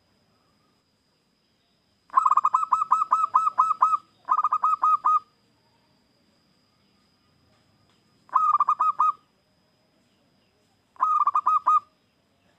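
Zebra dove (perkutut) calling: four phrases of quick, evenly repeated staccato coos, the first the longest.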